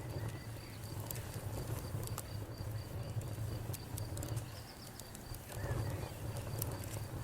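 Campfire burning: wood crackling with irregular sharp pops over a steady low rumble. A faint, high, pulsing trill runs underneath.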